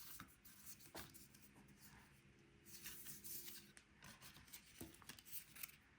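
Faint rustling and soft taps of cardstock being folded and creased by hand.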